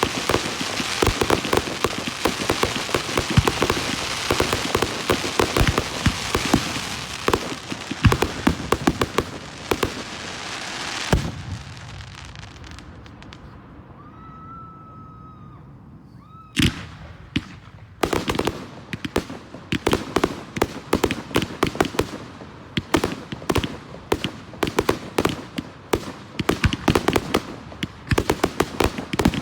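Fireworks display: a dense, rapid crackling of crackle shells that ends with a thump about eleven seconds in. After a lull with a faint whistle comes a sharp bang, and then another stretch of crackling and popping.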